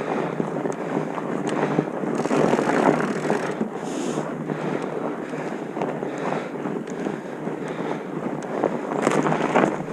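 Wind buffeting the camera's microphone in a steady, uneven rush, with scattered faint clicks and rattles.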